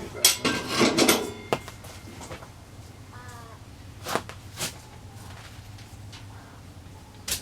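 A loud rustle with knocks in the first second, then scattered sharp clicks and knocks, and a faint short bird call about three seconds in, over a steady low hum.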